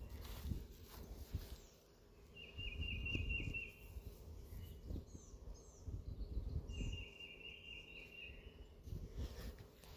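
A songbird singing short, high trilled phrases, each about a second and a half long, twice a few seconds apart, with fainter higher chirps between them, over a low background rumble.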